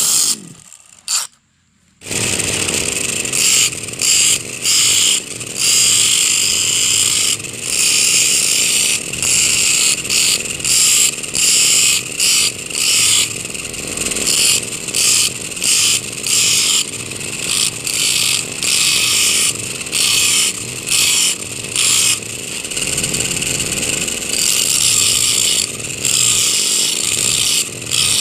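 Brush cutter's two-stroke engine running at high speed, driving a disc that grinds a steel file into a knife blade. It cuts out briefly near the start, then runs on with short dips about once a second.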